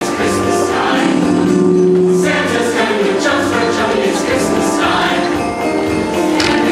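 Music: a choir singing sustained notes together.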